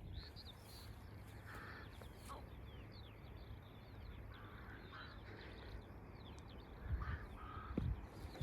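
Distant crow-family bird cawing, faint, with a short harsh call every second or two. Thin high chirps of small songbirds run through it.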